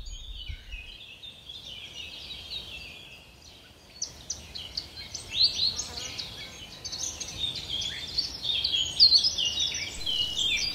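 Several birds singing: a dense chorus of quick chirps and short trills, sparser at first and busier from about four seconds in.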